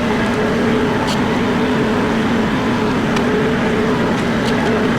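An engine running steadily at a constant speed, with a few faint ticks.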